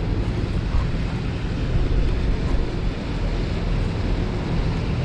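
Steady wind noise buffeting the microphone, with a constant low rumble underneath.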